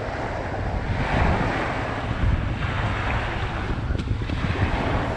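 Wind buffeting the microphone, a rough uneven rumble over a steady rushing hiss.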